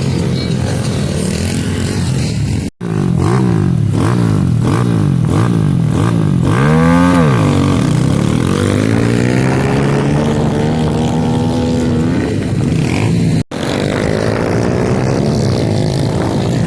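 Pit bike engine revving up and down repeatedly as the throttle is rolled on and off, then a long steady climb in pitch under acceleration. The sound cuts out abruptly twice, about three and thirteen seconds in.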